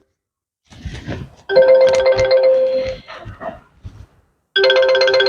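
Electronic chime tune of steady held tones, like a phone ringtone, sounding twice about three seconds apart.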